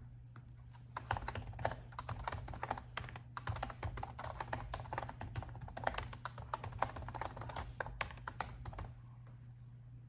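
Fast, steady typing on a laptop keyboard, a dense run of key clicks that starts about a second in and stops about a second before the end.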